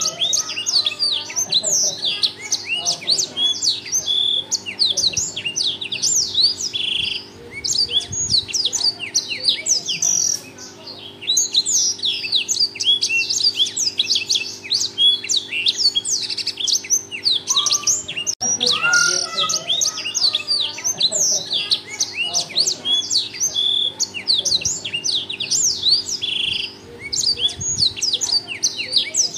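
Black-throated canary (blackthroat) singing a continuous song of rapid high chirps, sweeps and trills. The song repeats as a loop, restarting after a click about 18 seconds in, over a faint steady hum.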